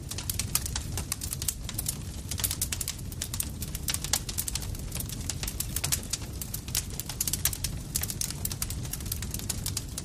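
Campfire crackling: dense, irregular sharp pops and snaps of burning wood over a steady low rumble.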